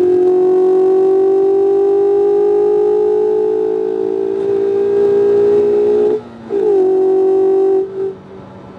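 2019 Mazda MX-5 RF's 2.0-litre four-cylinder engine accelerating, its pitch rising slowly, then a quick upshift about six seconds in. It pulls briefly in the next gear, then the throttle lifts near the end and the engine note drops away.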